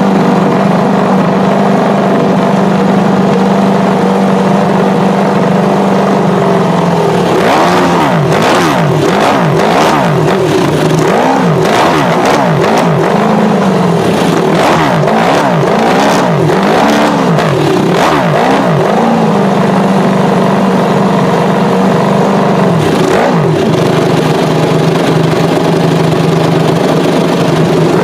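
Ducati Desmosedici GP7 MotoGP racing motorcycle's 800 cc V4 engine idling steadily. It is then revved in a long run of sharp throttle blips, each rising and falling quickly in pitch, before it drops back to idle, with a couple more blips near the end.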